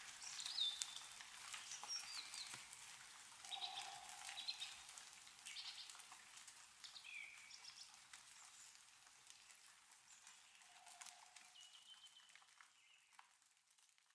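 Meltwater dripping from snow-laden trees in scattered faint ticks, with small birds chirping a few short calls; everything fades out near the end.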